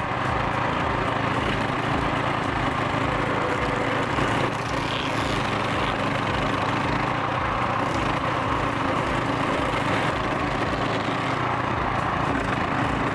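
A machine's engine running steadily under load, with a dense, even mechanical noise.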